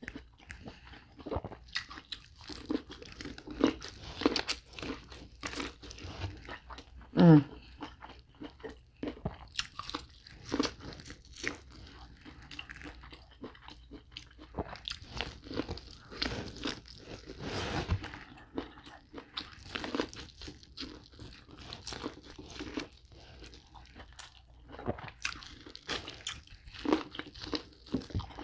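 Biting and chewing corn on the cob: a steady run of crunches and mouth clicks as kernels are bitten off and chewed. One short sound rising in pitch, the loudest moment, comes about seven seconds in.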